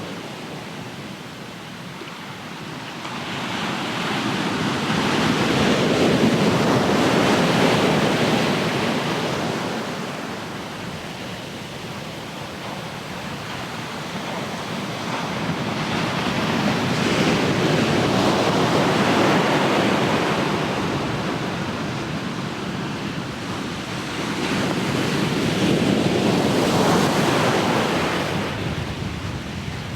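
Ocean surf: waves breaking and washing up the shore in three slow surges of noise, each building over a few seconds and then fading.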